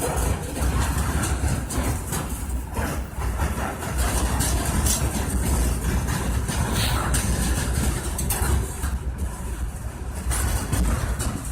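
Diesel freight locomotives running with a steady low engine rumble, scattered with irregular clicks.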